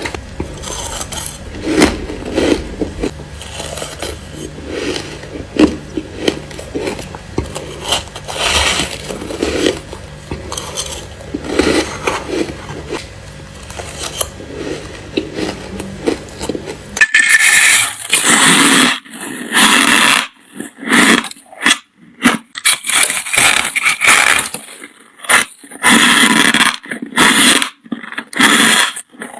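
Ice being bitten and chewed close to the microphone: repeated irregular crunching bites over a low steady hum. About two-thirds of the way through it cuts to louder, crisper crunches with short silent gaps between them.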